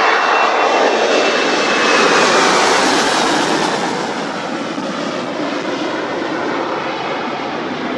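Airliner's engines passing close: a loud steady rush with a faint high whine that sinks slightly in pitch, loudest in the first few seconds and then easing off.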